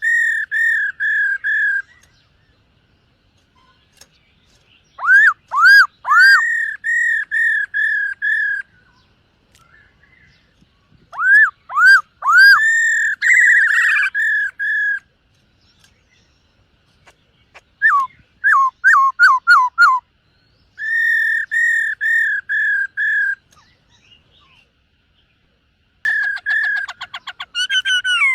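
Black-throated laughingthrush singing: clear whistled phrases, each a quick run of repeated notes, some opening with sharp upward-swept notes, about six phrases with short pauses between them.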